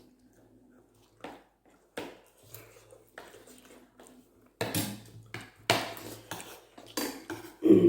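Spoons clinking and scraping against bowls during a meal: a string of separate clinks, sparse and faint at first and louder and more frequent from about halfway through.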